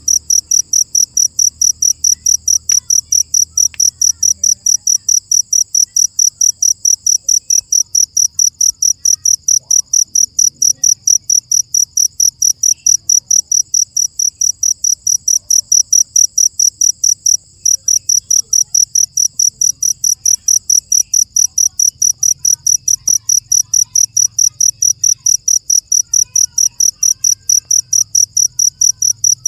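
Cricket chirping in an even, unbroken rhythm of about three high-pitched chirps a second, with one brief break a little past halfway.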